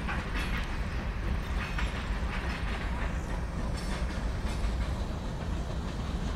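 BNSF freight cars rolling past: a steady low rumble of steel wheels on the rails, with irregular clicks from the wheels.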